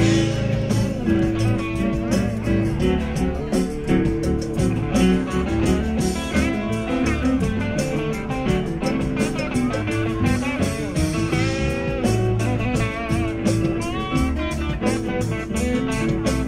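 Live rock band playing an instrumental passage: a guitar line over bass and a steady drum beat.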